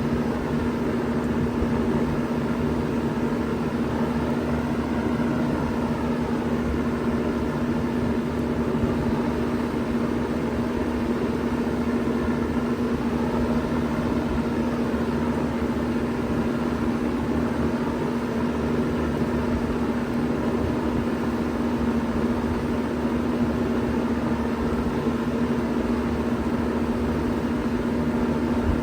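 1993 Bard 2.5-ton wall-hung heat pump running steadily in cooling mode: a steady compressor hum under the even rush of its fans, with a slow wavering beat in the fan noise.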